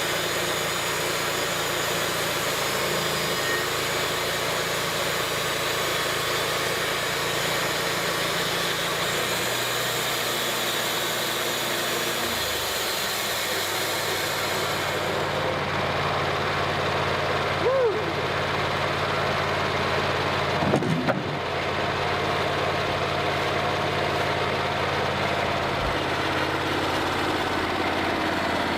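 Engine running steadily at a constant speed, with a short squeal about two-thirds of the way through and a brief clatter a few seconds later.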